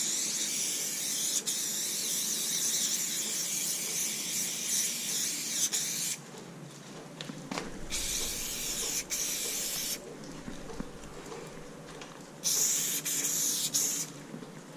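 Montana aerosol spray-paint can spraying onto a wall in three bursts: a long one of about six seconds, then two shorter ones of a second or two, with short pauses between.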